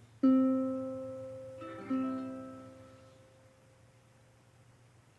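Closing ukulele chords: a chord is strummed, then another about a second and a half later, and each rings out and fades away to silence about three seconds in.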